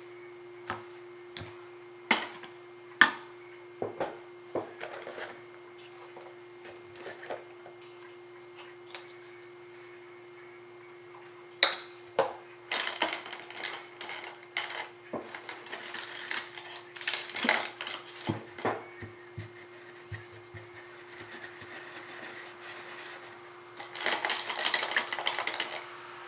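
Scattered clinks and taps of painting tools being handled, such as brushes knocking against a water cup or palette, over a steady low hum. The taps come sparsely at first, grow busier about halfway through, and turn into a dense run of clattering near the end.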